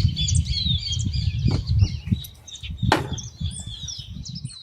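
Many small birds chirping and twittering over a heavy low rumbling noise, with two sharp cracks about a second and a half in and about three seconds in.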